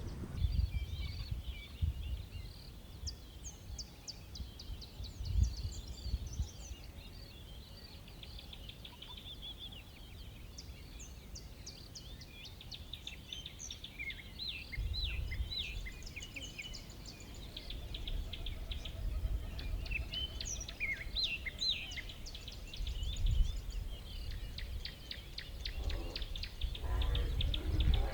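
Many small birds chirping and trilling, with quick calls overlapping throughout, over an uneven low rumble that swells and fades.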